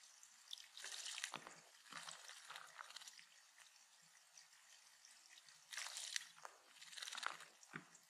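Faint bursts of rustling and crunching from birds at a feeder, in two clusters: one about a second in and another from about six seconds.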